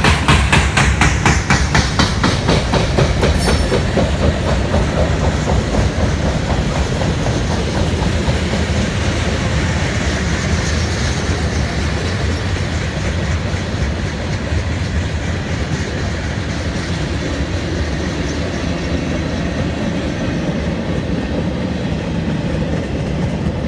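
Norfolk Southern freight train passing, its wheels clicking rapidly over the rail joints under a steady rumble; it is loudest in the first few seconds, then eases a little.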